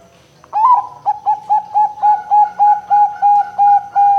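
Zebra dove (perkutut) cooing: a rising first note, then a quick run of about a dozen short, even coos at roughly four a second, leading into a long held note at the end.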